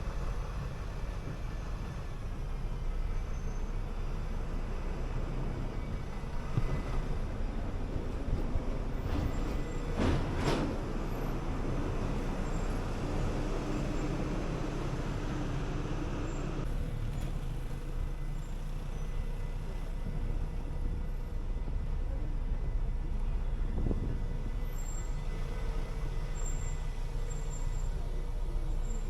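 RTP city bus on the move, with steady engine and road noise, and a short hiss of air from the air brakes about ten seconds in.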